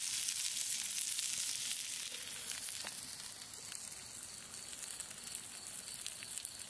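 Salmon fillets and sausages frying in a cast-iron skillet over a campfire grate: a steady sizzling hiss with a few faint pops, slowly getting fainter.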